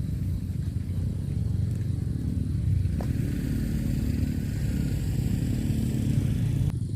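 Road traffic rumble, with a motorbike engine running from about three seconds in. The sound changes abruptly near the end.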